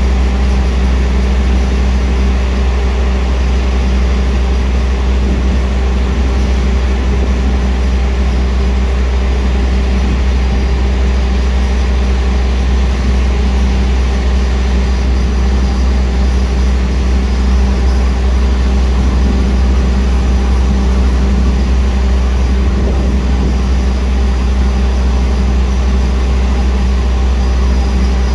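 Steady, unchanging machinery hum of a train standing at the platform: a deep drone with a steady mid-pitched tone over it, its onboard equipment running while it waits.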